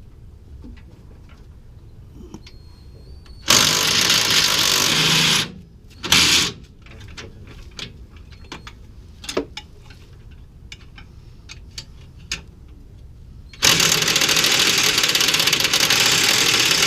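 Impact wrench hammering in three bursts: a run of about two seconds, a short blip, then a longer run of about three and a half seconds near the end.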